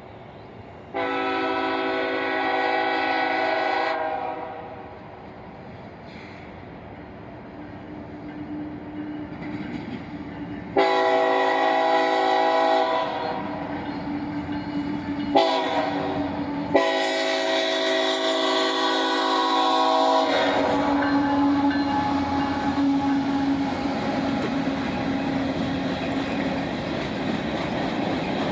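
Locomotive air horn sounding the grade-crossing signal: two long blasts, a short one and a final long one, a multi-note chord. The train then rolls past with wheels clattering over the rail joints.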